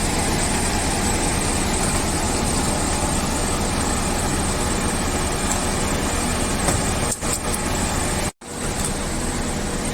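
Steady engine running with a constant rushing hum, broken off sharply by a cut about eight seconds in.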